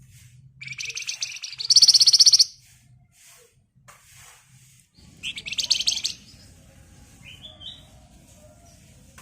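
Flamboyan (wergan Jawa) songbird singing its rapid rattling trill, the 'ngebren' song, in two bouts, the first ending louder and higher, followed by a short rising note. A low rumble of background noise sets in about five seconds in.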